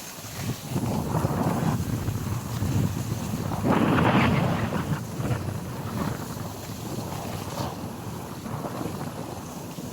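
Wind buffeting the microphone in uneven gusts, the strongest about four seconds in.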